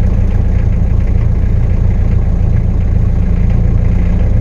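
Ford Ranger's Perkins diesel engine idling steadily with an even rhythm, seconds after a cold start in freezing weather; the engine is still cold and its oil pressure is slow to come up.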